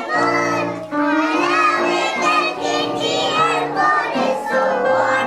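Young children singing a song together over instrumental music accompaniment.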